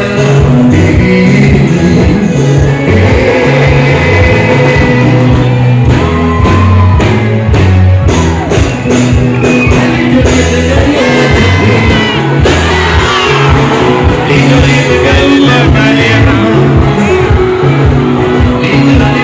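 Live band music played loud through a PA, with a steady repeating bass beat and a singer's voice over it; the sound is poor.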